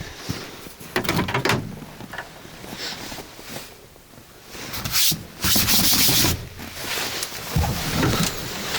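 Irregular rubbing and scraping noises, loudest in a scraping stretch about five to six and a half seconds in, with no engine running.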